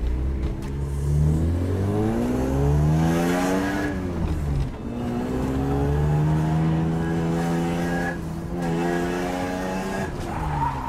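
A car's naturally aspirated engine, heard from inside the cabin, accelerating hard up a mountain road. Its revs climb three times, dropping sharply about four seconds in, again about eight seconds in, and once more near the end.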